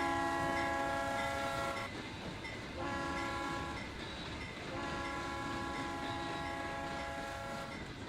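Steam locomotive whistle blowing in a pattern: a long blast ending about two seconds in, a short blast, then another long blast, over the low rumble of the train.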